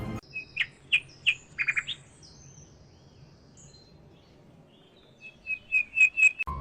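Bird chirping: a quick series of short, sharp chirps in the first two seconds, then quiet, then a faster run of chirps near the end.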